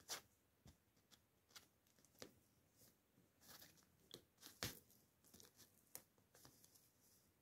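Faint, irregular rustling and scratchy clicks, kittens scrabbling and moving about in a crinkly fabric play tunnel.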